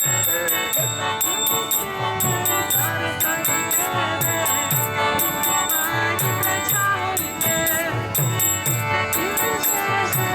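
Kirtan music: small hand cymbals (karatalas) clash in a steady rhythm over a hand drum's repeated low strokes that fall in pitch, with held instrumental tones and a wavering melody line beneath.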